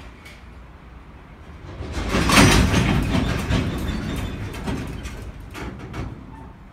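Couplers of Koki container flat wagons banging one after another as a freight train starts off, the slack running out along the train. The loudest clank comes about two seconds in, followed by a string of clanks that fade away.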